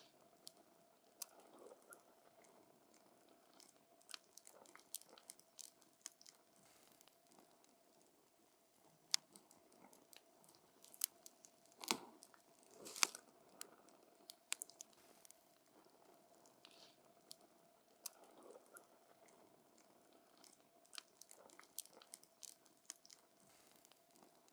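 Wood fire burning close up, with irregular crackles and sharp pops that come thickest about halfway through, over a faint steady tone.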